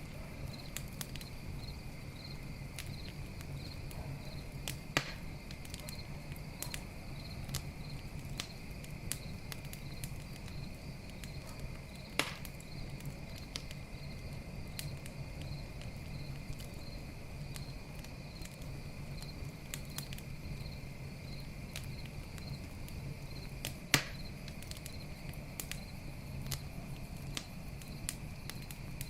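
Wood campfire crackling with many small scattered clicks and three louder pops, the loudest near the end. Crickets chirp steadily behind it.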